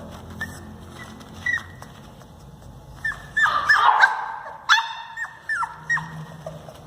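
Pomeranian puppy giving short, high-pitched cries that fall in pitch at the end: a few faint ones early, then a quick run of them from about three seconds in, with one louder, rougher cry among them.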